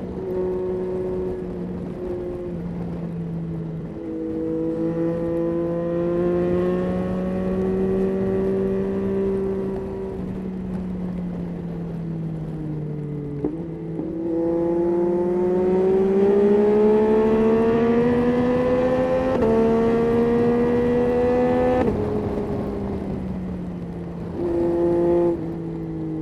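Yamaha Tracer 9's 890 cc three-cylinder engine heard while riding: the engine note holds and eases down, then climbs steadily under acceleration for about eight seconds before falling away sharply as the throttle is closed about three-quarters of the way through.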